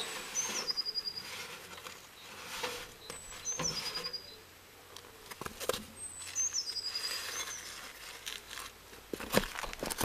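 A small bird repeating a short high song phrase, a falling whistle ending in a quick trill, about every three seconds. Scattered knocks and clatter of handling come between, the sharpest one near the end.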